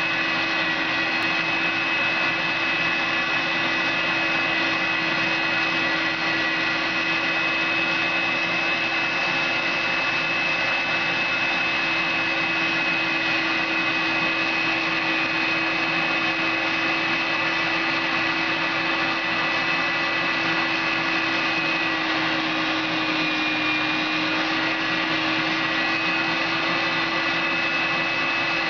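Carpet and upholstery extractor's motor running steadily, a constant whining hum with a rush of air.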